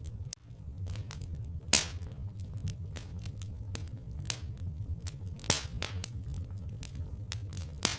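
Log fire crackling: irregular sharp snaps and pops, the loudest about two seconds in and again past five seconds, over a low steady rumble.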